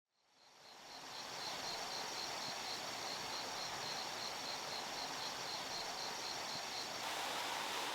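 Forest ambience fading in from silence: an insect trills in even, rapid pulses at a high pitch over a steady hiss of background noise. The background shifts slightly about seven seconds in.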